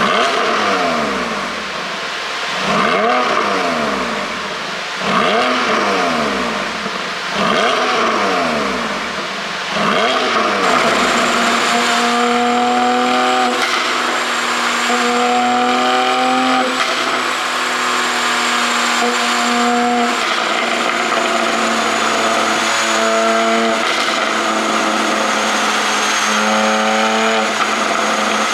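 A Porsche 718 Boxster GTS 4.0's flat-six running with its exhaust flaps held fully open by an ECU tune. It is revved hard four times in the first ten seconds, each rev rising and falling. After that the note holds at a run of steady pitches that step up and down.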